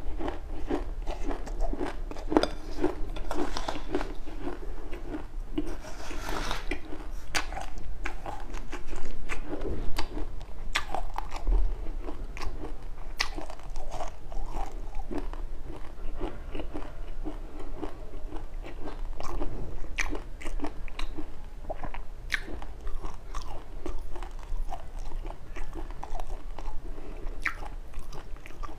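A person chewing a mouthful of sesame and anise seeds: a continuous run of small, crisp crunches and crackles.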